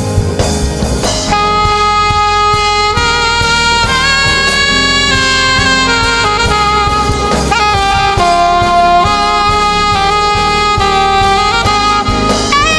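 Saxophone playing a slow lead melody of long held notes, one sliding into the next about halfway through, over a gospel band with drums.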